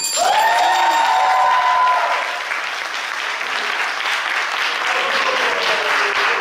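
Live audience applauding, the clapping swelling in the second half, with a drawn-out vocal call over it in the first two seconds.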